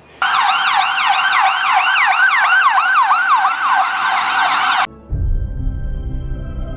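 Emergency-vehicle siren in a fast yelp, about three sweeps a second, cutting off suddenly a little before five seconds in. Music with sustained tones over a low bass follows.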